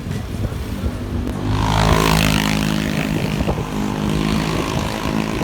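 A motor vehicle's engine running close by in traffic, with road noise, swelling to its loudest about two seconds in and then carrying on steadily.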